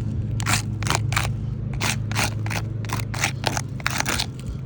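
A string of short scrapes or rustles, roughly two a second and irregular, over a steady low hum.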